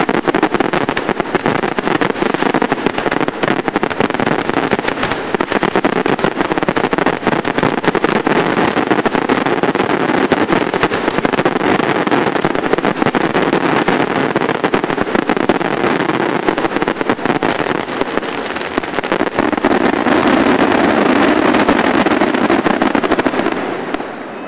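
Fireworks going off in a dense, continuous barrage of bangs and crackle with no gaps, dying down near the end.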